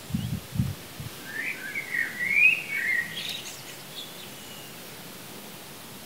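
A songbird singing one warbling phrase of quick up-and-down notes, starting about a second in and lasting about two seconds, over a steady background hiss. A few low thuds come just before it.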